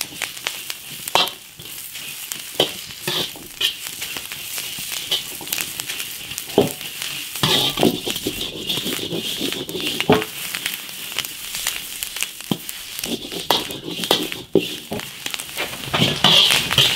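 Chili peppers sizzling as they are stir-fried in a wok until fragrant, with scattered sharp scrapes and knocks of the spatula against the pan.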